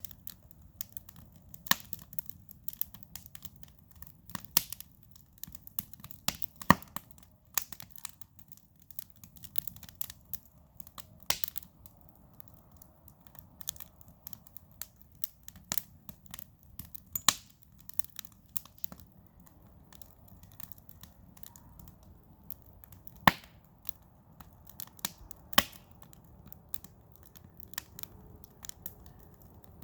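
Cedar campfire crackling, with irregular sharp pops and snaps over a faint low rush.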